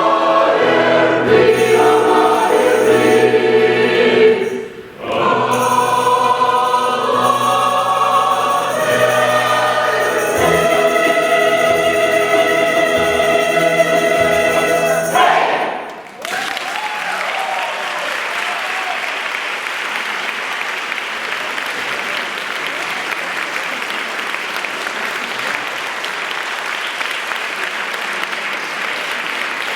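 A choir singing, ending on a long held final chord, then steady audience applause from about halfway through.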